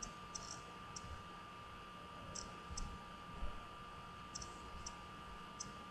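Faint, light clicks scattered irregularly, about nine of them, some in quick pairs, over a steady faint high hum.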